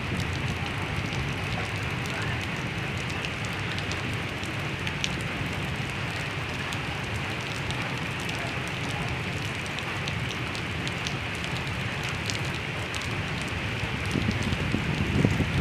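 Heavy rain falling on a flooded street: a steady hiss of rain on standing water, with scattered patter of individual drops. Near the end a louder, uneven low rumble comes in.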